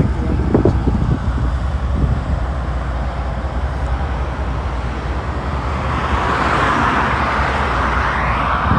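Wind buffeting the microphone, with a vehicle passing on the road, its tyre noise swelling from about six seconds in and easing near the end.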